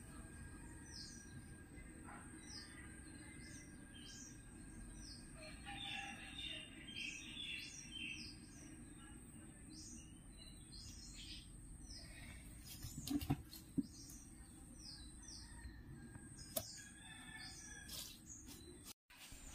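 A small bird chirping over and over, short falling chirps about two a second, against a faint steady hiss and a thin high whine. A couple of soft taps a little past the middle.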